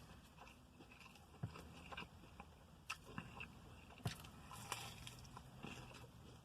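A person chewing and biting food close to the microphone: quiet, irregular mouth clicks and soft crunches, with a few sharper ones about a second and a half, three and four seconds in.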